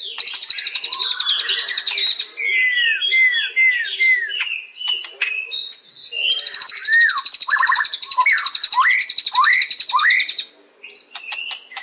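White-rumped shama singing: a fast, buzzing high rattle, then four short falling whistles and a few sharp clicks. A second, longer rattle follows about six seconds in, with swooping whistles under it, and stops about a second before the end.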